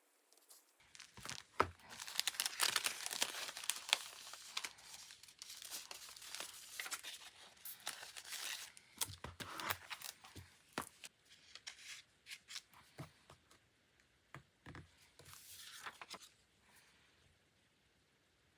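Paper craft materials being torn and crinkled by hand, a dense rustling broken by sharp taps, which stops a couple of seconds before the end.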